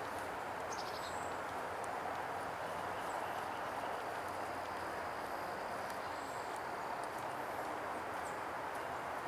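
Steady hiss of distant highway traffic, with a few faint high chirps.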